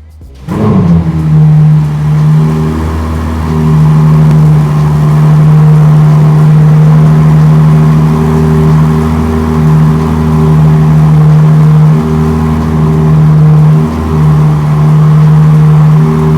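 Ferrari 296 GTS twin-turbo V6 engine fires up about half a second in, flares briefly, then settles into a steady, loud idle.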